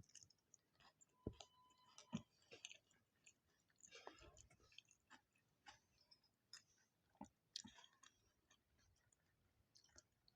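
Faint close-miked chewing and mouth sounds of a person eating rice, dal curry and fried potato, with scattered small clicks and crunches.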